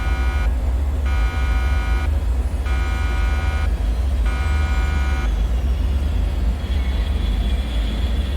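Deep steady rumble with a buzzing alarm tone pulsing on and off in beeps of about a second with short gaps, which stops about five seconds in. After it, a faint high whine slides slowly down in pitch.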